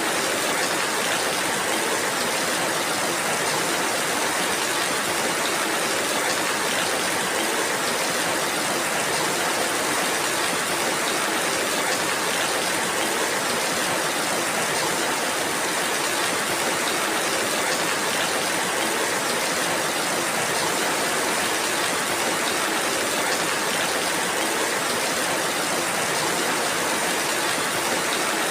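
Steady rainfall in a forest, an even hiss that holds the same level throughout.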